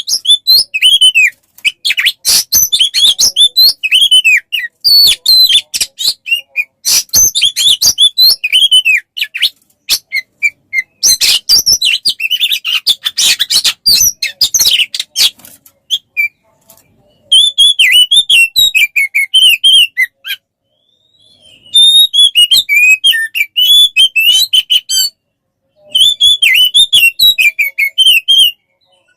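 A caged songbird sings a fast, varied song of chirps, whistled slurs and sharp clicking notes. It comes in loud bursts of a few seconds with short pauses between them. This is a masteran, a tutor recording played so that Oriental magpie-robins (kacer) learn the song.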